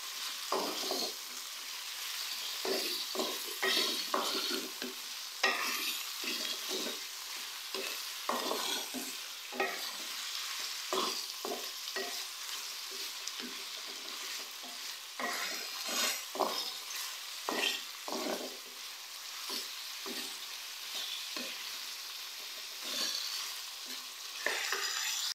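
Chicken pieces frying in oil with onions and ginger-garlic paste in a metal karahi, a steady sizzle broken by repeated short scrapes of a wooden spoon stirring them against the pan.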